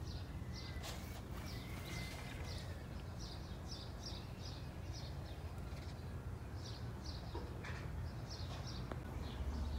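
Small bird chirping over and over in short high notes, several a second, over a steady low rumble.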